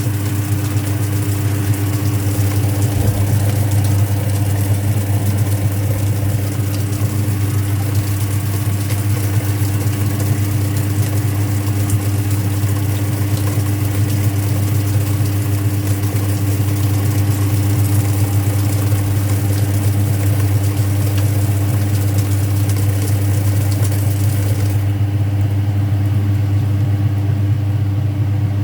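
Speed Queen top-loading washing machine running with a steady low motor hum. A hiss over the hum stops near the end.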